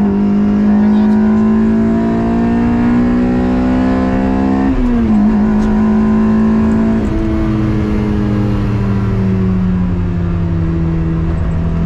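Toyota 2ZZ-GE 1.8-litre four-cylinder in a mid-engine MR2 pulling hard through the gears, its pitch climbing steadily before dropping sharply on an upshift about five seconds in, then holding and easing down slightly.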